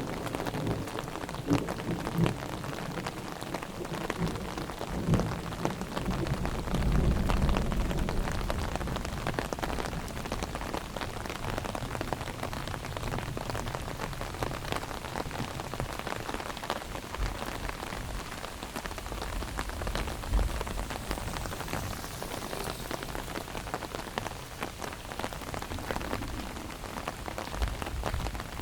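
Heavy rain falling on an umbrella overhead, a dense steady patter of drops, with a low rumble swelling briefly about seven seconds in.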